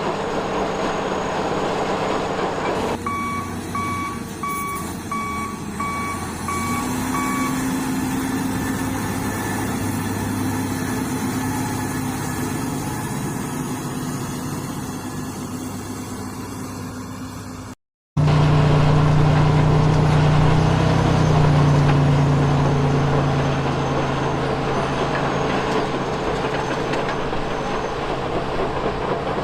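Remote-control construction models running with a steady mechanical whir. A few seconds in, a reversing beeper beeps about eight times at an even pace. After a brief dropout about two-thirds of the way through, the motor hum comes back louder.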